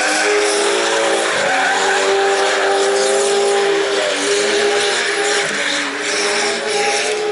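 Drift car engine held at high revs with tyres squealing through a long slide; the engine pitch shifts down and back up a few times.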